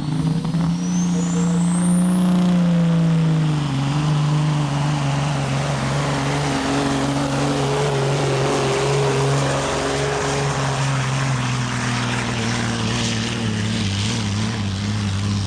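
Pro stock semi truck's turbocharged diesel engine running hard under full load as it pulls the sled. A high turbo whine climbs over the first couple of seconds and then holds, and the engine note drops a step about three and a half seconds in.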